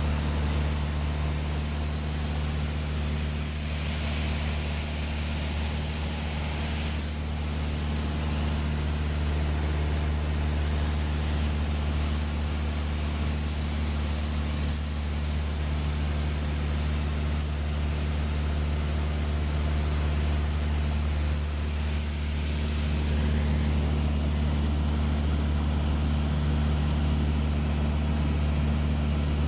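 Light aircraft's piston engine running steadily, a constant low drone with an even pitch throughout.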